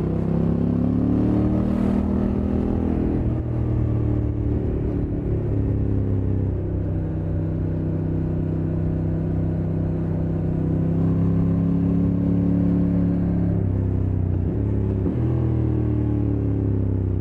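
Honda NT1100's 1084 cc parallel-twin engine running under way, its pitch rising and falling, with several abrupt drops in pitch a few seconds in, at about seven seconds and near the end.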